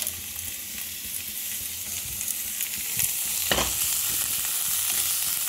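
Onion-tomato masala sizzling in oil in a kadhai, fried until the oil separates. About three and a half seconds in there is a knock, and the sizzle grows louder as boiled green peas go into the pan.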